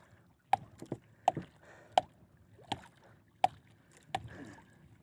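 Repeated sharp, hollow knocks against a small boat's hull, about one every 0.7 s, each with a brief ring.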